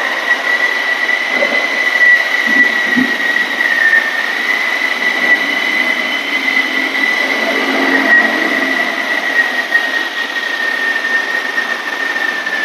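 Hyundai car engine running with a steady high-pitched whine over it. The engine is misfiring on one cylinder, which is traced to a faulty fuel injector.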